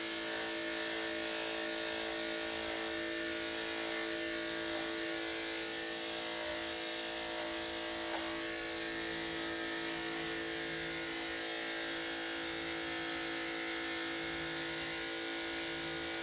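Electric dog grooming clippers running steadily, a constant buzzing hum as the coat is shaved.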